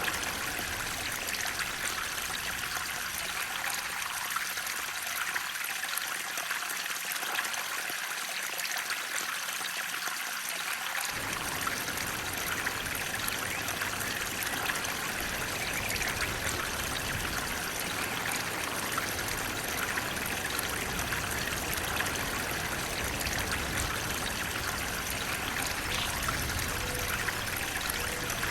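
Flowing water running steadily, a continuous rushing and trickling with the most energy in the middle and upper range. The deeper rumble underneath thins out for several seconds and comes back abruptly about eleven seconds in.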